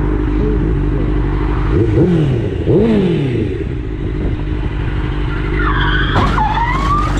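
Car engine running steadily, with two short rise-and-fall sweeps in pitch about two and three seconds in. Near the end comes a high wavering squeal.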